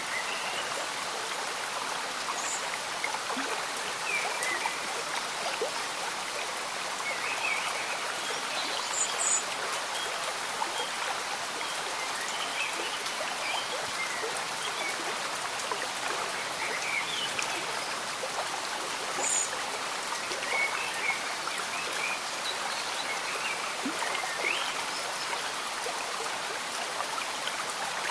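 Steady rain mixed with the gentle bubbling of a slow-moving stream, an even wash of water noise dotted with small scattered plinks and trickles.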